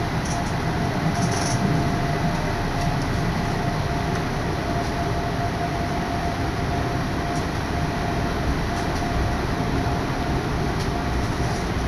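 Odakyu Odawara Line electric commuter train running at speed, heard inside the carriage: a steady running rumble with a steady whine over it and a few faint ticks.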